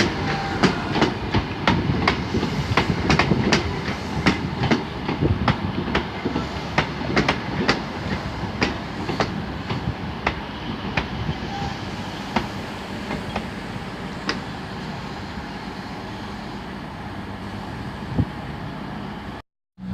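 A train running over rail joints and pointwork, wheels clicking against a steady rumble. The clicks come less often and the sound fades over the second half, then cuts off just before the end.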